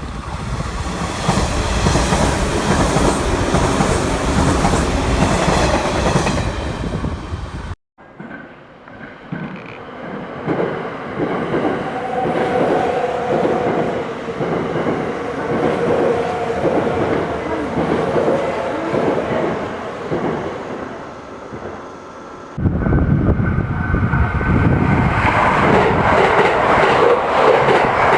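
Trains passing over rail joints, their wheels clacking rhythmically over the joints. There are three separate passings: the sound cuts off abruptly about 8 seconds in and changes again about 22 seconds in. In the quieter middle passing, the clacks repeat at an even pace over a steady whine.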